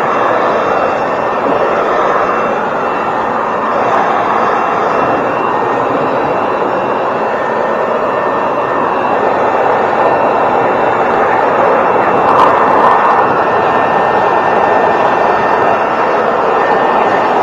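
A loud power tool or machine running steadily: a constant even noise with a faint steady whine.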